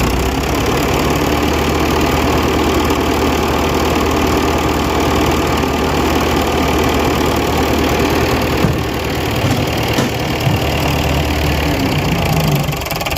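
Fordson Super Major tractor's four-cylinder diesel engine running steadily at idle. Its steady low note drops away shortly before the end.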